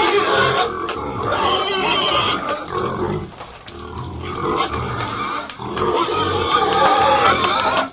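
Pigs calling, many voices overlapping in a continuous din.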